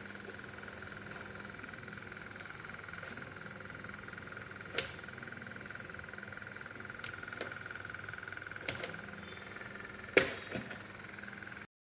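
Electric wall exhaust fan running with a steady hum and whine, with a few sharp clicks or taps, the loudest about ten seconds in.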